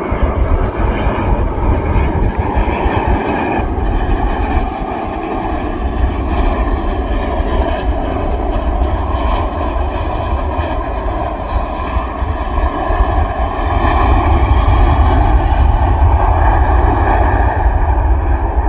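Jet airliner engines, most likely the Etihad Boeing 787 Dreamliner on its landing approach, running steadily with several whining tones over a deep rumble. It gets louder in the last few seconds as the aircraft comes closer.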